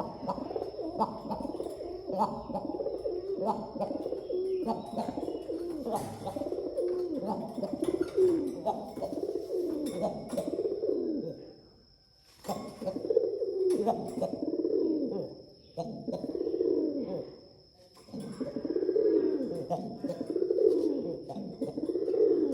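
Domestic pigeons cooing: low coos that rise and fall, one after another slightly faster than one a second. The cooing breaks off briefly about twelve seconds in and twice more later, with a faint steady high whine underneath.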